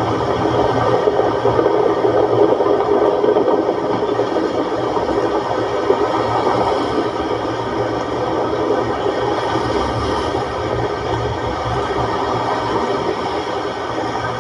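Moderate sea with waves of one to two metres breaking on the shore: a loud, steady rushing noise that swells and eases slightly, with no separate crashes standing out.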